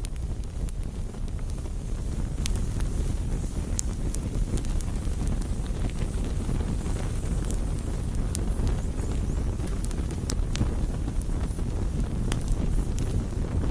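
Campfire burning: scattered sharp crackles and pops from the wood over a steady low rumble.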